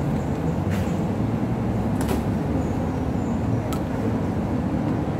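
Steady low rumble of a vehicle running, with a few faint sharp clicks about one, two and nearly four seconds in.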